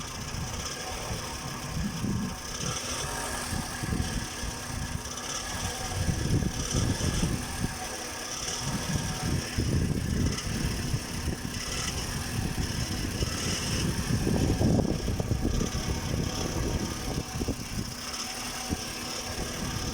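Toyota 1AZ-FE four-cylinder engine idling with an uneven knocking rattle, which the owner takes for a knocking flywheel.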